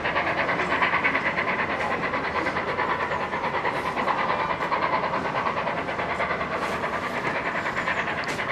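Steam-hauled train behind the A1 Pacific 60163 Tornado running past at speed, with a fast, even beat of about five or six pulses a second that holds steady.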